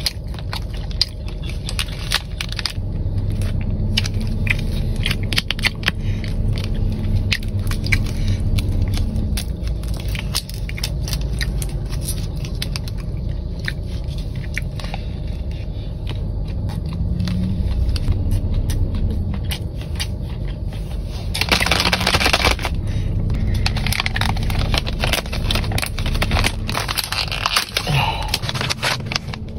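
Close-up eating sounds: crunchy food chewed and crackling in the mouth, many small crisp clicks one after another. About two-thirds of the way in comes a louder rustling patch lasting about a second, and a steady low rumble runs underneath.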